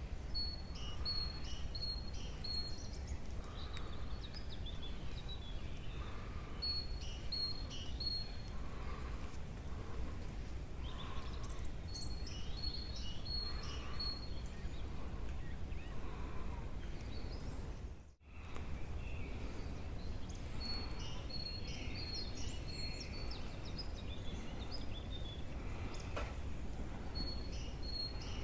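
Songbirds singing: one bird repeats a short phrase of four or five even, high notes every five or six seconds, among other scattered chirps, over a steady low rumble. The sound cuts out for a moment about two thirds of the way through.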